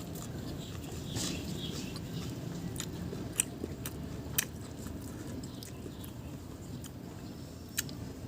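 A person chewing and biting food, with a few sharp clicks.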